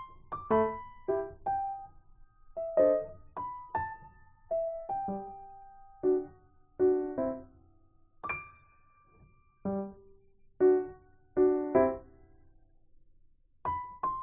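Background music: a slow piano melody of single notes and chords, each struck and left to die away, with short pauses between phrases.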